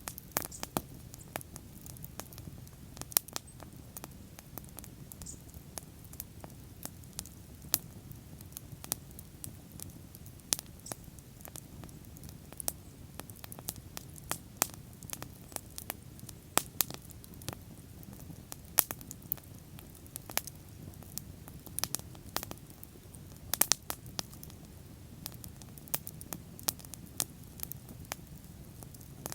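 Wood bonfire burning: irregular sharp crackles and pops over a low steady rumble of flame, with a quick cluster of louder pops about three-quarters of the way through.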